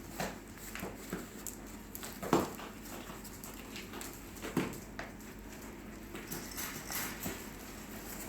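Young Airedoodle puppies making short, irregular sounds as they move about, the loudest a little over two seconds in and again around four and a half seconds in.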